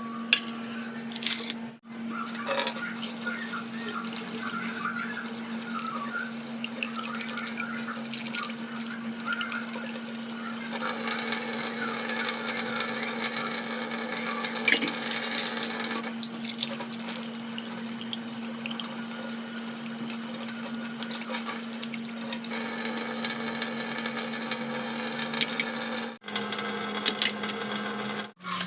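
Wet cleaning of a Honda CG125 carburettor: liquid and water splashing as the parts are scrubbed, over a steady low hum.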